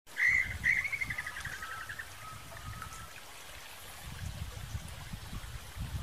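A songbird calling: a couple of bright chirps, then a fast trill of repeated notes that fades, then a few short whistled notes. A steady low rumble lies underneath.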